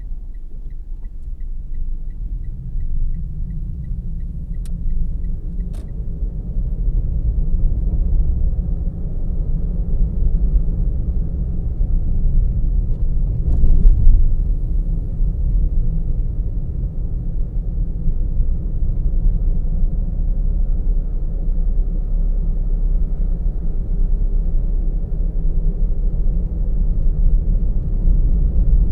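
Car driving, heard from inside the cabin: a steady low rumble of road and engine noise. For the first six seconds there is a light, regular ticking about three times a second, and a single brief knock comes about halfway through.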